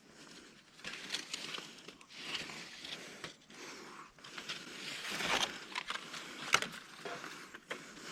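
Irregular rustling and scraping with a few sharp clicks and knocks, the loudest knock late on: someone climbing up a tree and moving about on a tree stand.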